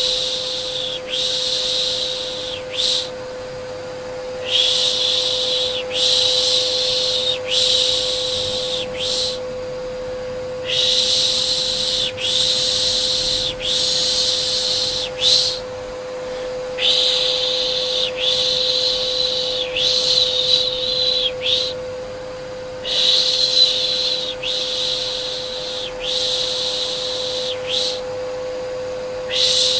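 Rhythmic 'shh, shh' shushing for a baby, about one shush a second in runs of four or five with a short pause between runs, over a steady vacuum-cleaner hum.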